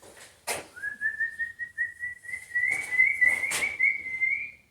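A high, fluttering whistle that holds one note and slowly rises in pitch for about four seconds, with a couple of sharp knocks, then cuts off suddenly.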